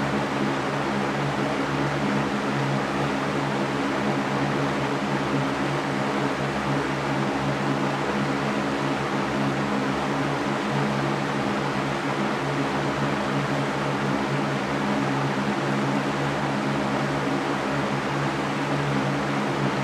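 Electric fan running steadily: an even whooshing hiss over a low motor hum.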